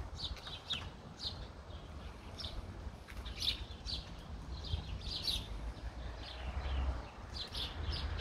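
Small birds chirping in short, scattered calls, with a low rumble underneath.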